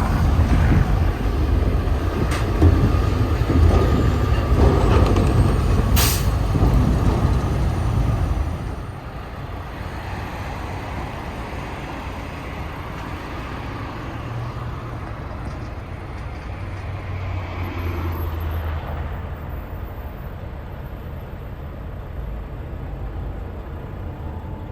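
Car-hauling truck on the road: a heavy low engine and road rumble that drops to a quieter, steady rumble about eight and a half seconds in, with one sharp click about six seconds in.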